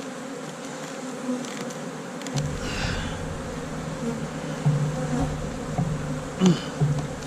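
Honey bees buzzing steadily in a dense swarm around an open hive of a strong colony. A low rumble comes in about two seconds in and stays under the buzzing.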